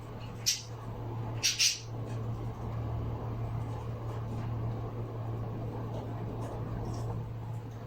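A pet bird gives three short, high chirps: one about half a second in and two close together around a second and a half. A steady low hum sits underneath.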